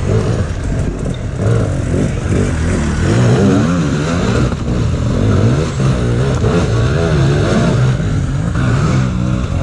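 Dirt bike engines revving hard, their pitch rising and falling over and over as the throttle is worked on and off.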